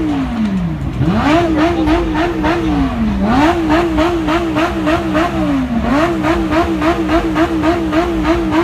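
A car engine is revved hard three times. Each time it climbs quickly and is held bouncing off the rev limiter, its pitch stuttering rapidly at the top, before dropping back toward idle.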